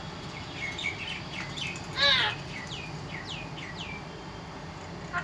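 A parrot chirping: a run of short, quick downward-sweeping chirps, with one louder warbling call about two seconds in.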